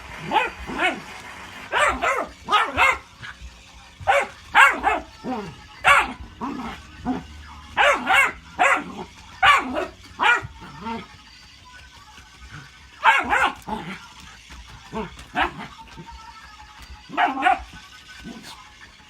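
Dog barking and yipping in short, sharp calls, often two or three in quick succession, with brief pauses between clusters.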